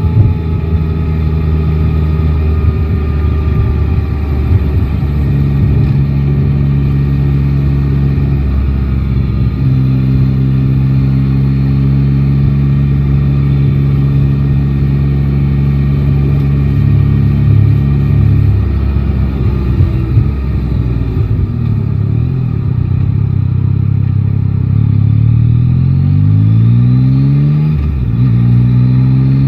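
Yamaha Tracer 9 GT's inline three-cylinder engine heard from the rider's seat, running at steady revs with a few shifts in pitch. Near the end it accelerates, the revs rising and dropping suddenly about twice as it changes up through the gears.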